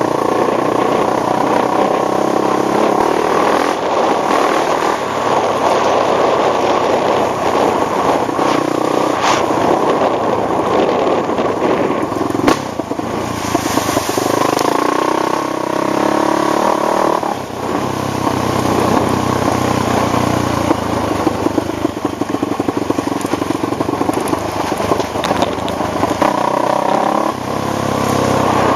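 ATV engine running steadily while riding, its pitch rising and falling with the throttle and briefly dropping twice, with scattered clattering knocks.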